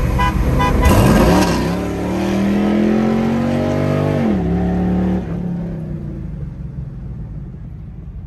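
Car engine heard from inside the cabin under hard acceleration. The revs sweep up about a second in and keep climbing, drop at a gear change just after four seconds, then the throttle is lifted and the engine sound fades away.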